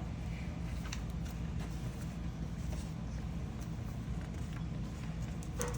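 Steady low background hum, with a few faint clicks of plastic Lego bricks being handled and fitted.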